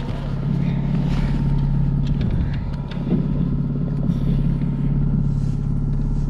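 Boat's outboard motor running steadily at trolling speed, a low even hum, with a few light clicks and knocks about two to three seconds in.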